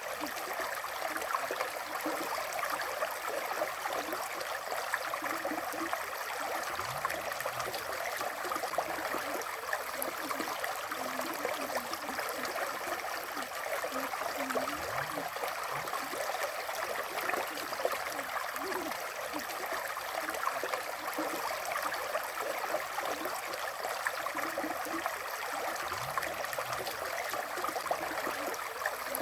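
River water flowing and gurgling over stones: a steady, even rush without pauses.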